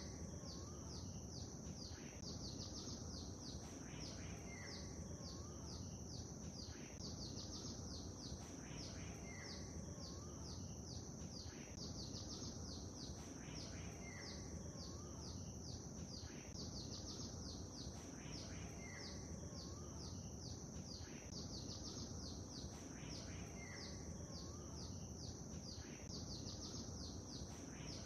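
Songbirds chirping in quick high strokes over a steady low wash of lake-water ambience, with one short bird phrase returning about every two and a half seconds.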